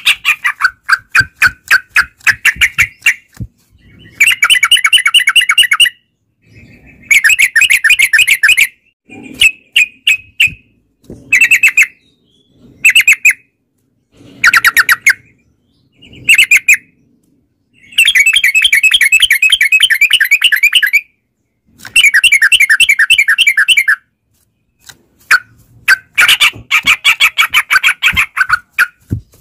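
Yellow-vented bulbuls (trucukan) singing: rapid chattering phrases of quick repeated notes, in bursts of one to three seconds separated by short pauses.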